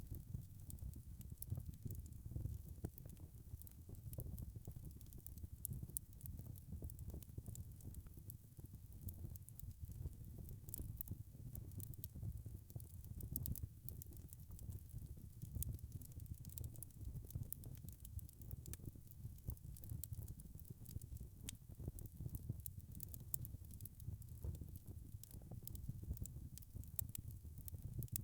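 Wood fire burning: a low steady rumble of flame with frequent small, sharp crackles and pops scattered throughout.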